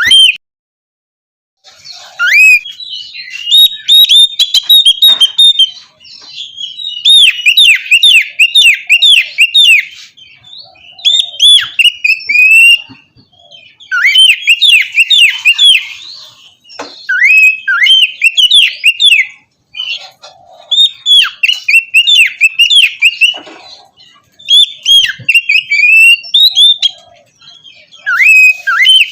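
Oriental magpie-robin (kacer) singing: loud, rapid phrases of sweeping whistles and chatter. The song comes in bursts of a few seconds with short breaks between, starting about two seconds in after a brief silence.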